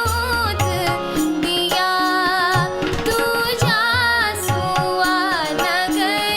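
Woman singing a Kumaoni mangal geet (traditional auspicious folk song) in an ornamented, gliding melody, accompanied by a hand drum and steady held instrumental tones.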